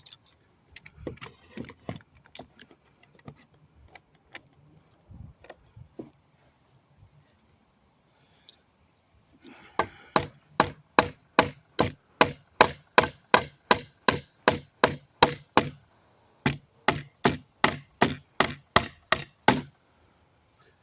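Hammer striking a wooden pallet plank to knock out its nails. Scattered light knocks and handling at first, then a steady run of sharp blows, about three a second, from about halfway through, with a short break near the end.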